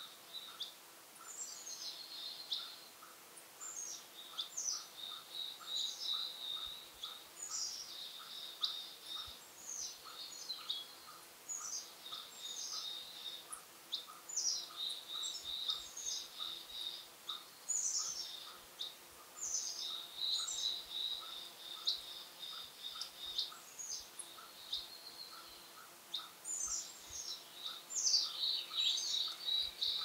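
Songbirds singing, with overlapping phrases every second or two, each a quick downward slur ending in a high trill. Underneath runs a soft, regular ticking, about one or two a second.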